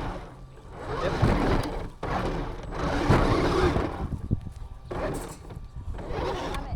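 Onboard sound of an RC car driving, its tyres and drivetrain rumbling with repeated surges of noise, about six in a few seconds, as it runs over rough ground.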